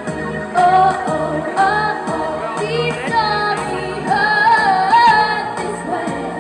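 Female singer singing a pop song over a backing track, with held notes that waver in pitch.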